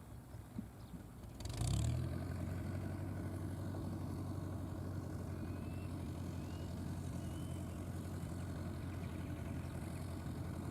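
Fiat 640 tractor's diesel engine running steadily, getting suddenly louder about a second and a half in and then holding a steady low hum.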